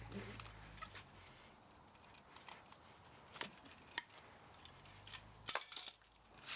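Scattered light clicks and metallic taps of hand tools and small metal parts being handled while an electric motor is taken apart, with a quick cluster of clicks near the end. A faint low hum fades out about a second in and returns briefly before the end.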